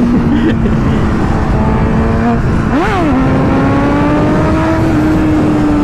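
Motorcycle engine running underway, with a quick rev about three seconds in, then its pitch climbing slowly as it speeds up.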